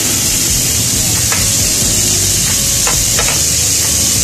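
Chicken feet sizzling as they brown in hot oil and margarine in a metal pan, with a metal spoon stirring them and clicking against the pan a few times.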